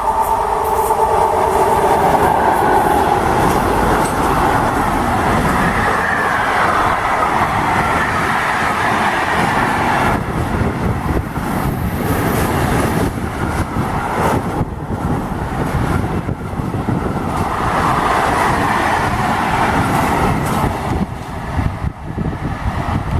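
Train running past close by, its wheels clacking over the rail joints, with a steady tone in the first few seconds; the noise eases near the end.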